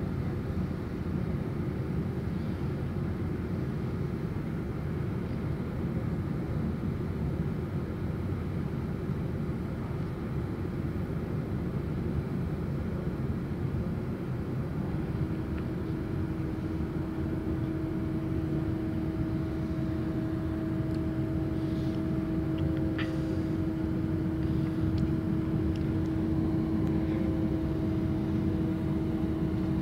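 Class 444 Siemens Desiro electric multiple unit heard from inside the carriage: a steady rumble of the train running on the track, with a steady whine joining about halfway through.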